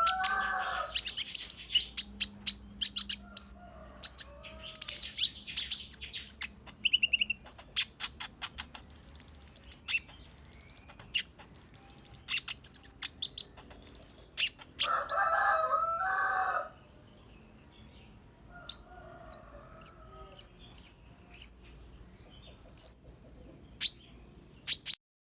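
Kolibri ninja sunbird singing a fluent, rapid song of high chirps and trills, with phrases copied from the white-eye (pleci) song. About two-thirds of the way through, the song thins to sparse single high chirps.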